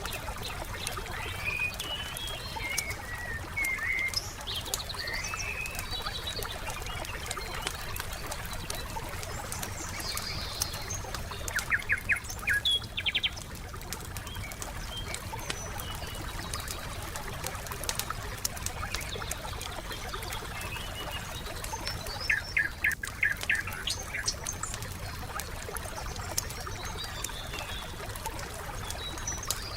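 A wood fire crackles with small scattered pops while songbirds chirp and call over it. Twice, near the middle and about three-quarters through, a bird gives a short fast run of sharp notes, the loudest moments in the mix. A steady low background murmur sits underneath.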